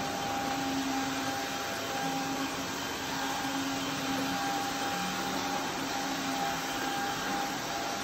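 Roidmi Neo cordless wet and dry vacuum running steadily as it cleans a floor: an even whir with a steady tone, and a low hum that comes and goes every second or so.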